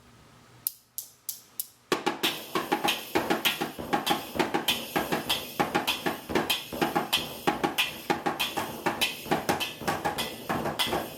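Drum kit being played: four sharp clicks count in, then about two seconds in a steady, busy drum beat starts.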